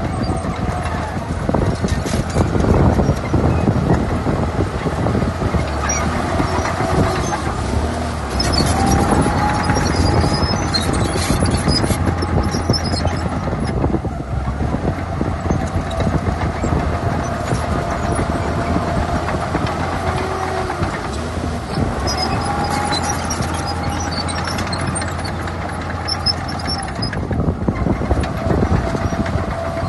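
Shantui crawler bulldozer at work: its diesel engine runs under load with a steady clatter of steel tracks and a recurring squeal that comes and goes.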